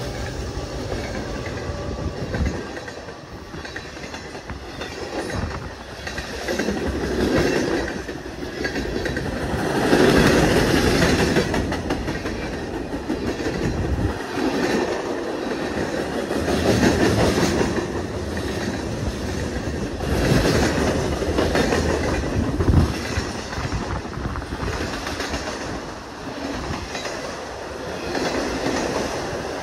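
A train's cars rolling past, steel wheels on the rails making a continuous rumbling clatter that swells and eases several times.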